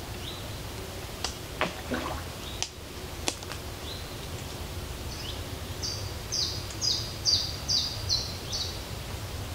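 Birds singing outdoors: soft short high notes repeat about once a second, a few sharp chirps sweep downward early on, and in the second half comes a loud run of about seven quick two-part notes, each stepping down in pitch. A steady low rumble lies underneath.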